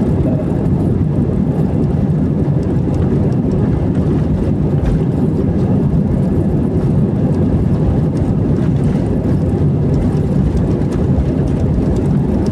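Steady low rumble of an airliner's jet engines and airflow heard inside the cabin, even in level with no rise or fall.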